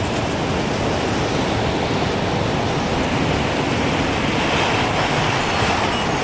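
Strong wind blowing in a steady rush, with a few faint, high wind-chime tinkles near the end.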